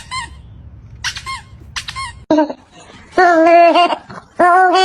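A run of short high-pitched squeaks, then longer, louder squeaky tones starting about three seconds in and again near the end.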